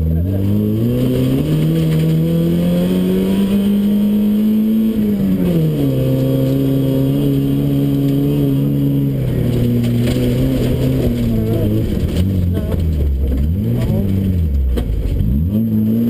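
Ford Fiesta XR2 rally car's four-cylinder engine under hard driving, heard from inside the cabin. It climbs in pitch for about five seconds, drops back and holds steady, drops again, then dips and picks up several times near the end as the driver lifts off and accelerates again.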